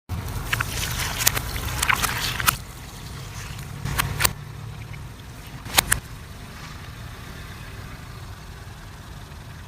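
A car's tyre rolling over and crushing brittle objects: a run of sharp cracks and snaps in the first few seconds, two more cracks about four seconds in and a loud double crack near six seconds, over the car's steady low rumble.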